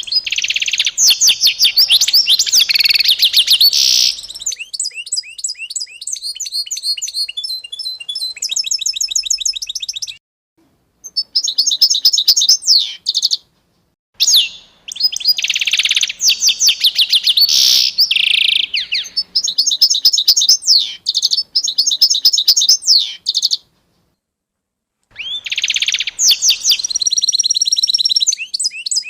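Small songbirds singing fast, high trills and quickly repeated chirps in several long phrases, broken by brief complete silences about ten, fourteen and twenty-four seconds in.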